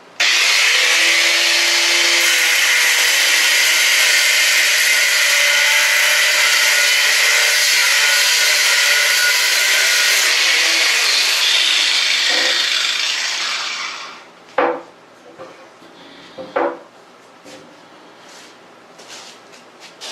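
Grinder with an abrasive cutoff wheel starting up and cutting through a steel welding-table leg, a loud steady grinding for about twelve seconds, then spinning down with a falling whine. Two sharp metallic knocks follow near the end.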